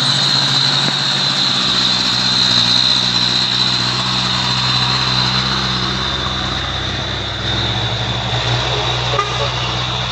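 Heavy truck's diesel engine running steadily, with a steady high-pitched hiss above it.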